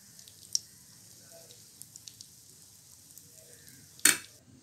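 Batter-dipped bread frying in butter in a nonstick pan: a faint steady sizzle with scattered small crackles. A brief, loud knock comes about four seconds in.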